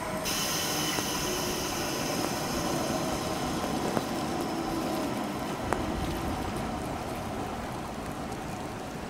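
Electric multiple-unit passenger train at the station, a steady running noise and hiss with a faint hum, broken by two sharp clicks about four and six seconds in.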